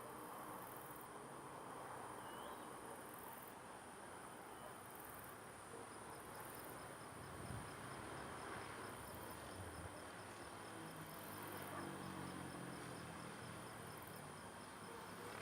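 Night-time insect chorus of crickets chirping: high-pitched pulses repeating every second or so over a steady high trill, with a faster high ticking joining about six seconds in.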